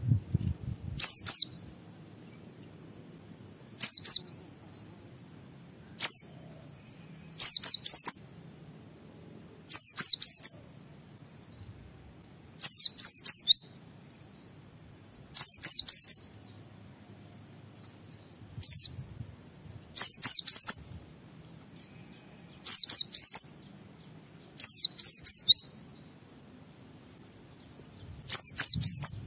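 Pleci (white-eye) singing in short, loud bursts of rapid high chirps that sweep quickly downward, one burst every two to three seconds. It is the fast 'gacor' song that bird keepers play to set other pleci singing.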